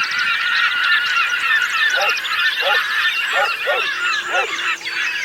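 A large flock of birds calling all at once: a dense, unbroken din of many overlapping calls, with lower honk-like calls standing out every second or so.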